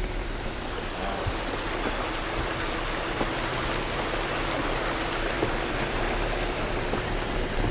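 Floodwater rushing and splashing steadily around a vehicle wading through deep water, with a faint steady engine hum underneath.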